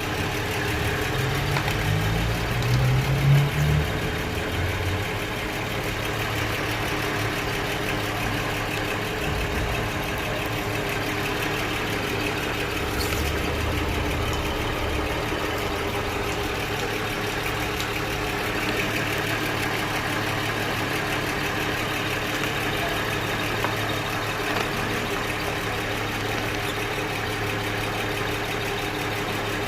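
2009 Toyota Land Cruiser's 1GR 4.0-litre V6 idling steadily, run to test its exhaust after the leak was repaired by electric welding.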